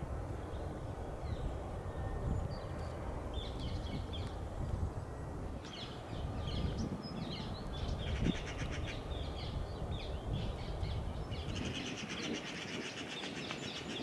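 Songbirds chirping and whistling in quick, varied calls that grow busier from a few seconds in, with a fast rattling run near the end, over a steady low background rumble.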